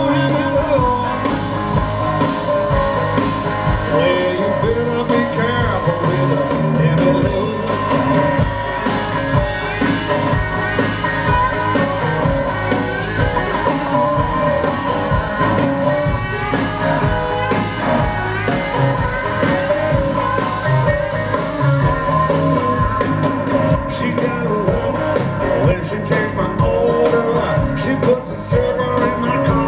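Live blues-rock band playing loudly, electric guitar over a steady drum beat.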